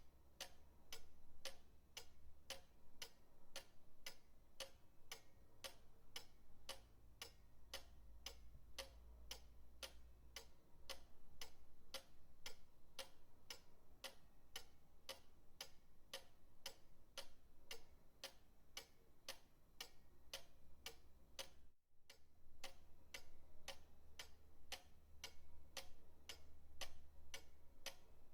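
Pendulum clock ticking steadily, about two even ticks a second, with a momentary dropout about three-quarters of the way through.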